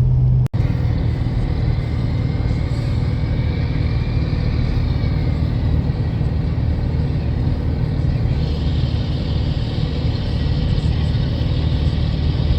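Steady low road rumble of a moving car, heard from inside the vehicle as it drives along. The sound cuts out for an instant about half a second in.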